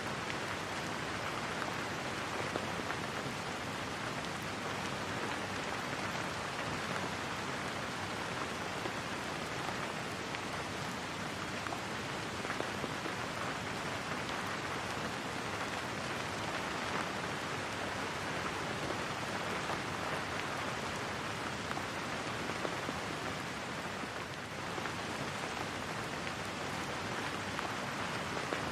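Steady rain falling, an even patter of raindrops with no thunder.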